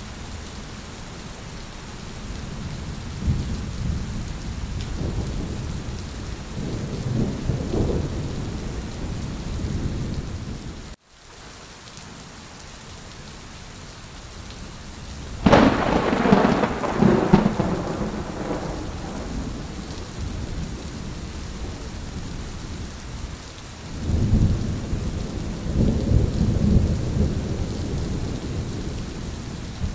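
Thunderstorm: steady rain with rolling thunder. There are low rumbles over the first ten seconds, and the sound cuts out for a moment at about eleven seconds. About halfway through comes a sharp, loud thunderclap that rolls off over several seconds, and another long rumble follows near the end.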